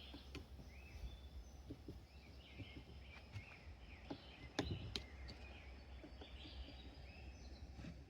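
Faint birds chirping in the background over a low steady rumble, with a few light clicks and knocks, the loudest about halfway through.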